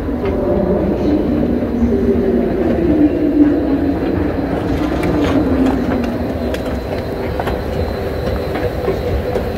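Train moving on a station track: a steady low rumble with a wavering hum through the first six seconds, then lighter clicks and rattles.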